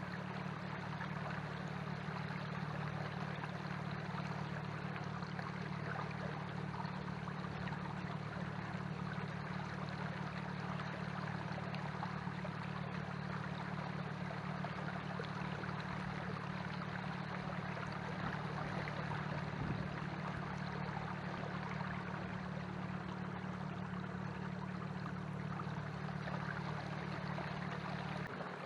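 Canoe under way on the water: a steady low hum with water washing along the hull, the hum stopping suddenly near the end.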